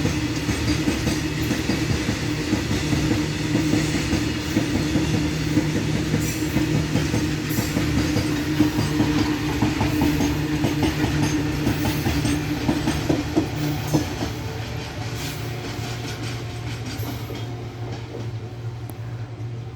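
A heavily loaded freight train of BOXN open wagons rolling past on the track, steel wheels clattering over rail joints with a steady rumble and hum. The sound eases off gradually after about two-thirds of the way through.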